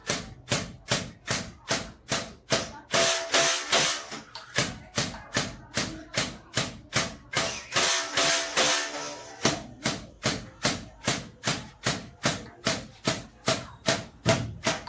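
Cotton-fluffing bow with its taut string struck repeatedly by a mallet, giving a steady beat of twangy strokes about two to three times a second. Twice the strokes run together into a longer, denser buzzing rush.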